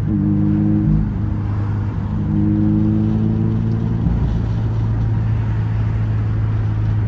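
A car running with a steady low drone, with a few held tones sounding over it early on and again a couple of seconds later.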